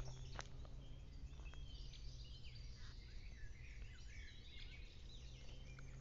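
Small birds chirping and twittering in the woodland, a cluster of quick high calls in the middle. A few footsteps crunch on dry leaf litter near the start and end, over a low steady hum.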